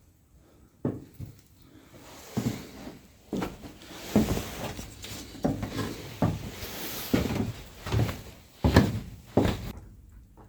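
A run of thuds and knocks, roughly one a second, with rustling and scraping between them: things being handled and moved about. The sounds stop suddenly near the end.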